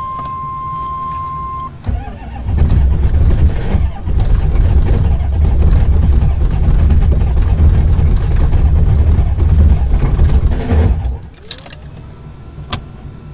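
Chevrolet 6.5 L turbo diesel being cranked by its starter in deep cold without catching, with grinding from the starter as its mounting bolts begin to shear off. A steady high beep sounds for the first couple of seconds, then the uneven cranking runs, breaks briefly about four seconds in, and stops about eleven seconds in, followed by a sharp click.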